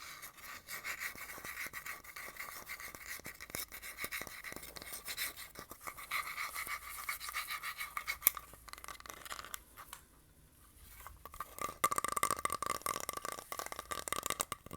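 Fast tapping and scratching of fingers and nails on objects close to the microphone, a dense stream of small clicks with a slight ringing tone. It breaks off briefly about ten seconds in, then comes back louder.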